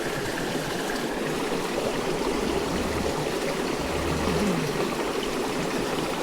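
Running water of a forest stream, a steady even rush.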